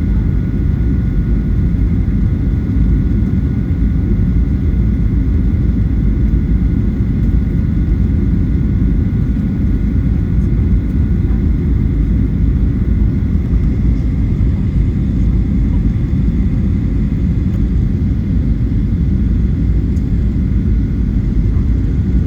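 Steady cabin noise of a Boeing 737-900 in flight on approach: a low, even rumble of airflow and engines, with two faint steady high tones above it.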